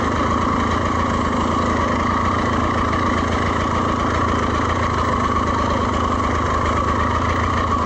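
Dirt bike engine running steadily at low, even throttle while riding slowly down a slick trail, with no revs rising or falling.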